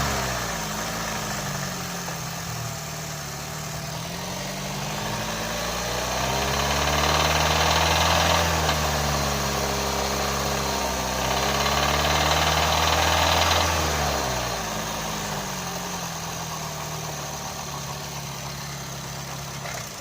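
Car engine revved up twice from idle, each time held for a couple of seconds before dropping back to idle. The engine makes a noise when the gas is pressed, and the owner has found metal in the oil filter.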